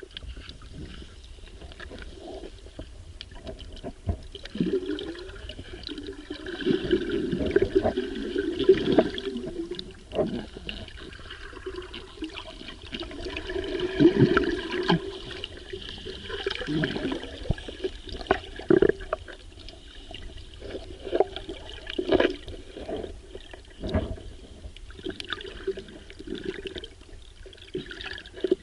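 Water gurgling and sloshing around an underwater camera, swelling and fading irregularly, with scattered knocks and clicks.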